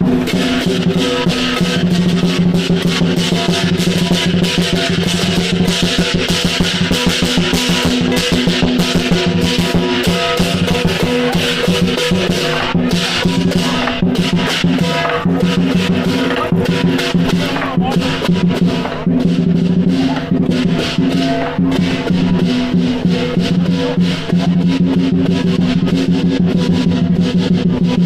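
Chinese lion dance percussion: a drum beaten in a fast, continuous roll with clashing cymbals, playing without a break.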